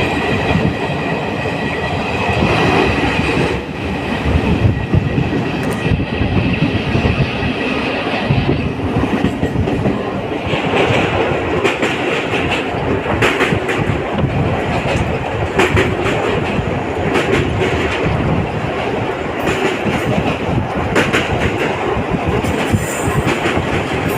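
Train running on the rails, wheels clattering over rail joints with irregular sharp clicks. A high steady whine fades out after about three seconds.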